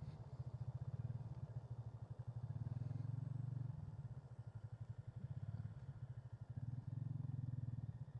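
Motorcycle engine running at low speed with a fast, even exhaust pulse, swelling louder twice with the throttle, about two and a half seconds in and again near the end.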